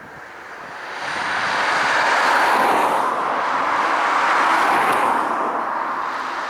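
Jet airliner passing close by: its engine noise swells over about a second, stays loud with a faint high whine over the rush, then eases slightly near the end.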